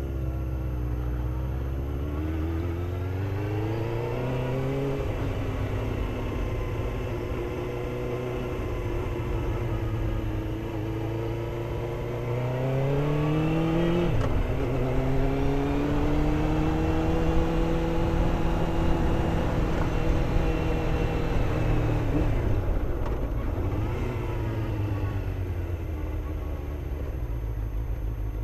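Motorcycle engine pulling through the gears. Its pitch climbs and drops back at each upshift, about five seconds in and again around fourteen seconds. It then holds a steady note, and falls away as the bike slows near the end.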